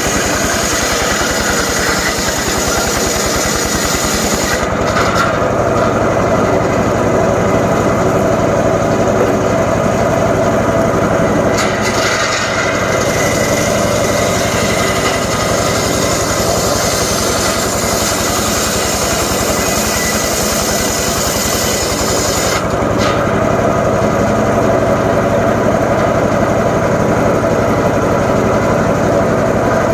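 Homemade engine-driven circular saw running continuously while cutting johar logs. The note deepens and loses its treble from about 5 seconds in and brightens again near 23 seconds.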